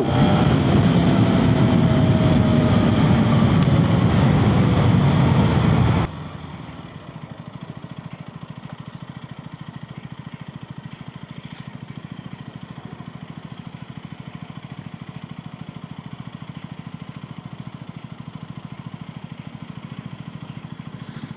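KTM Duke 250's single-cylinder engine heard from inside the rider's helmet while riding, loud with wind noise and the pitch falling. About six seconds in, the sound drops suddenly to a much quieter, steady engine running at low revs.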